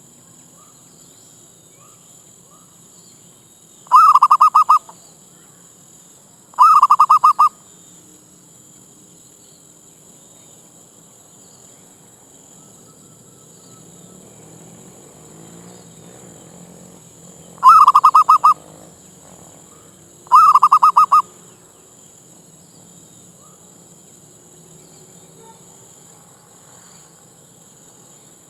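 Zebra dove (merbuk) cooing: four short, loud phrases of rapid stuttering notes, coming in two pairs about ten seconds apart.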